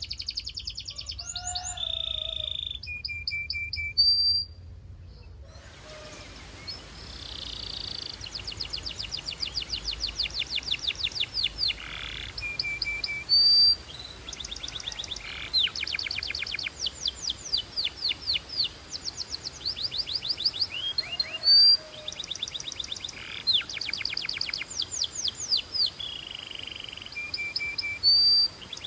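Belgian canary singing long, fast trills of rapidly repeated high notes, broken by short held whistles, with a brief pause about four seconds in.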